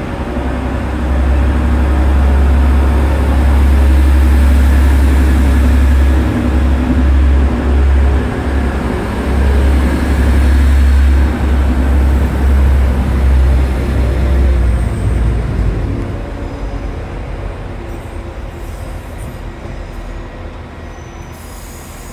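Train moving through a station, with a heavy low rumble that builds about a second in and dies away over the last several seconds.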